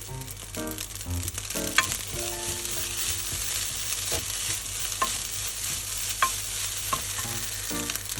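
Fried rice sizzling in a hot frying pan as it is stirred and tossed, with the spatula clicking against the pan a few times.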